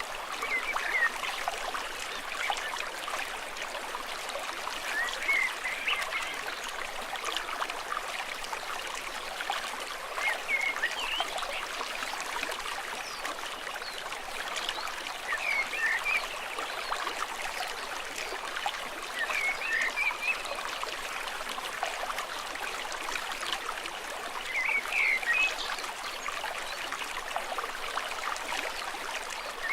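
Stream running steadily, with an animal's short, high calls repeating about every five seconds.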